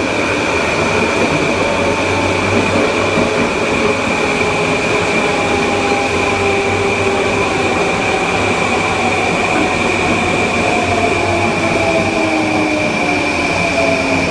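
Kawasaki M9 electric multiple unit running, its MELCO IGBT-VVVF inverter giving a steady high whine over the rolling noise of the car. The AC traction motors' whine falls slowly in pitch, as it does when the train is slowing.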